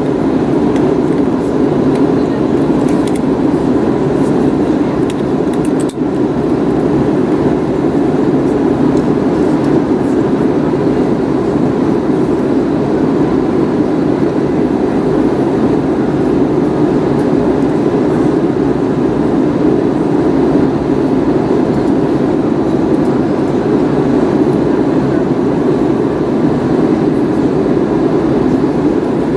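Steady roar of airflow and engines heard from inside the passenger cabin of an Airbus A321neo, with a brief dip about six seconds in.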